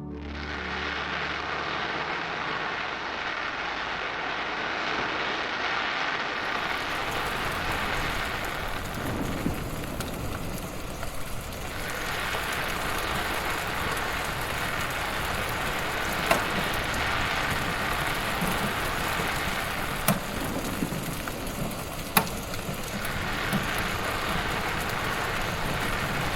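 Wood fire crackling in a fireplace: a steady hiss with a few sharp pops in the second half.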